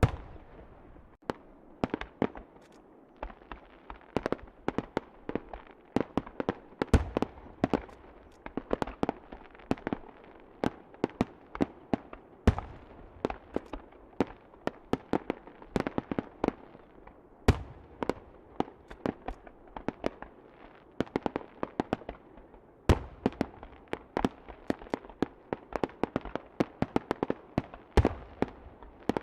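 Aerial fireworks bursting in rapid succession, many sharp bangs and cracks a second, with a louder, deeper boom about every five seconds.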